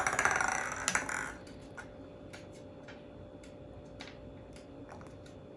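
A thrown toy ball clattering and rattling across a hard surface for about a second and a half, followed by a few scattered light clicks.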